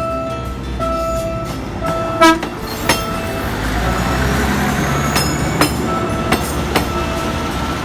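Short, evenly repeated steady tones during the first couple of seconds, then a passing PNR train: a steady low rumble with sharp clacks of wheels over rail joints.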